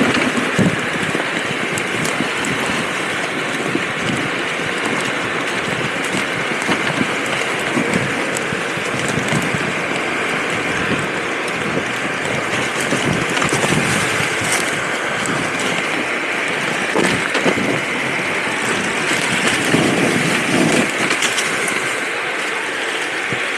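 A steady rushing noise with scattered knocks, most likely wind on the microphone during a dirt bike trail ride, with no clear engine note standing out.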